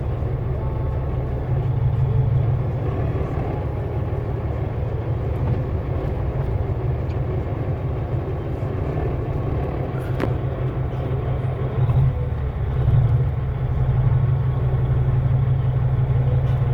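Volvo VNL semi-truck's diesel engine droning steadily at low speed, heard from inside the cab, with a single faint click about ten seconds in.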